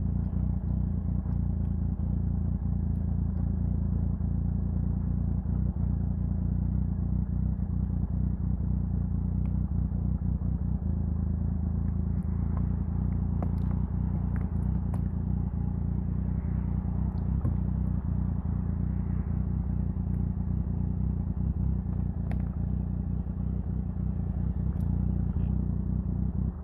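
Triumph Sprint 1050's three-cylinder engine running steadily, then cutting off abruptly at the very end.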